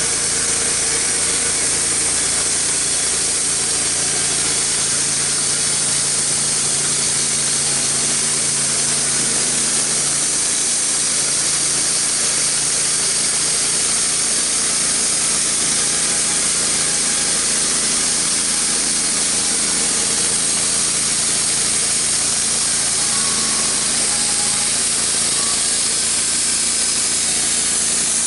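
Wood-Mizer LT15 portable band sawmill running steadily with its freshly sharpened band blade cutting through a white ash log.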